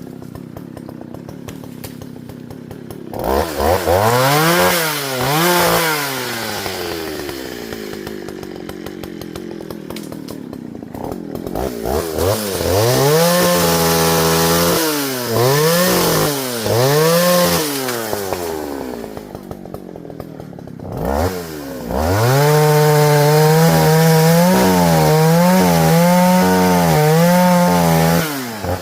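Partner Farmer two-stroke chainsaw idling and being revved in short bursts several times. Near the end it is held at high revs for about six seconds, with small dips in speed.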